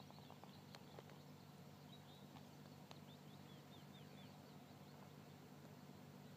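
Near silence outdoors: faint small-bird chirps, short repeated notes with a run of them about two seconds in, over a low steady hum.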